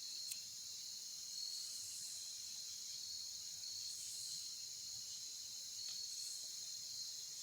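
Steady insect chorus: a continuous high-pitched trill. A softer, higher buzz swells and fades three or four times over it.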